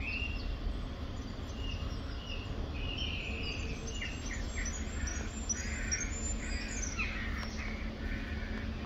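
Small birds chirping in quick, repeated short notes, over a steady low hum.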